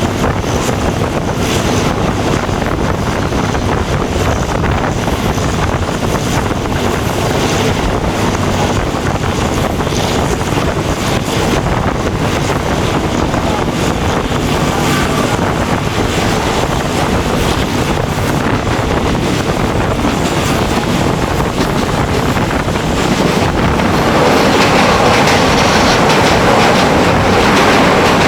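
A train running with a steady rumble and rush, growing louder about 24 seconds in as wheel-on-rail noise builds.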